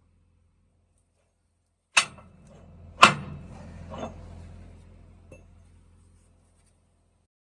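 Two loud, sharp metallic knocks about a second apart, then two lighter knocks, over a faint low hum; the hard metal-on-metal strikes of work on the truck's driveshaft carrier bearing.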